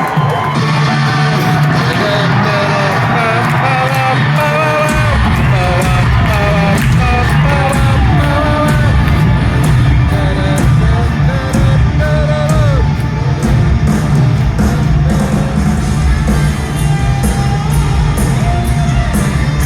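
Hard rock band playing live in an arena, with the crowd's voices over it and the hall's echo; heavy bass and drums come in about five seconds in.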